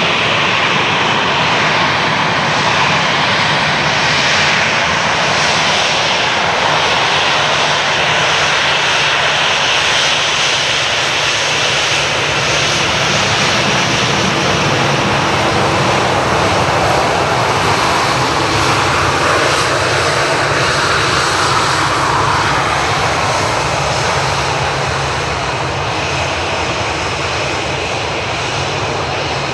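Boeing 737-800's two CFM56-7B turbofan engines running at high thrust: a loud, steady jet-engine noise that eases off slightly near the end.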